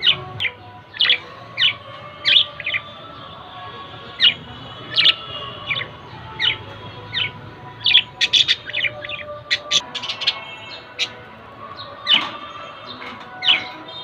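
Budgerigars chirping: short, sharp chirps about once or twice a second, with a quicker flurry of chirps a little past the middle.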